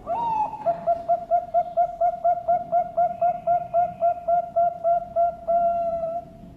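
Zebra dove (Bangkok-strain perkutut) singing its full song. It opens with a rising held note, runs into about twenty quick rhythmic coos at roughly four a second, and finishes on a longer held note.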